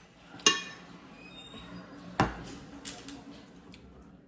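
Household objects being handled: a sharp clink that rings briefly about half a second in, a duller knock about two seconds in, and a few light taps.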